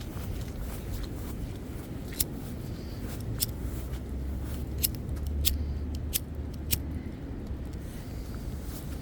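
Wind rumbling on the microphone in a snowstorm, with a handful of sharp, irregular clicks in the middle.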